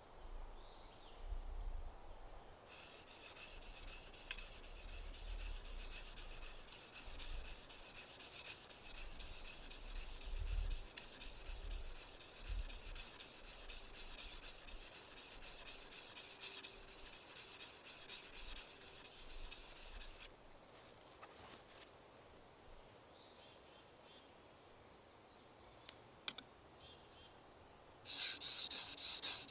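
A tool rasping steadily against a wooden sill-plate timber, from about three seconds in until about twenty seconds. It stops, then starts again near the end.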